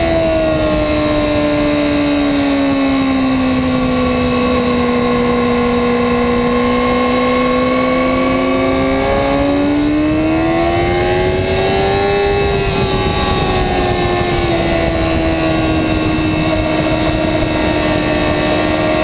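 2008 Yamaha R6's inline-four engine running at high revs under heavy wind rush. The engine note falls over the first few seconds, holds steady, climbs again around ten to twelve seconds in, then eases and holds before rising near the end.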